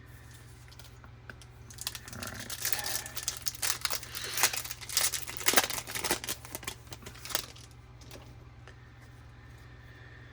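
Plastic trading-card pack wrapper being torn open and crinkled by hand, a few seconds of dense crackling in the middle, over a steady low hum.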